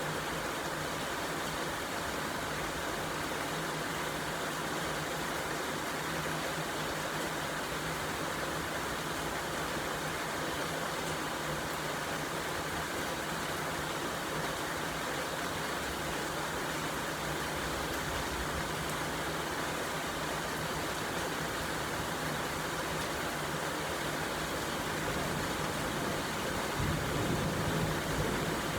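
Steady rain falling as an even hiss, with a low rumble swelling briefly near the end.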